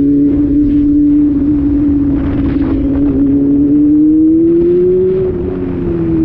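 Honda Hornet motorcycle's inline-four engine running at steady high revs under way; its note climbs a little past the middle, then eases off near the end.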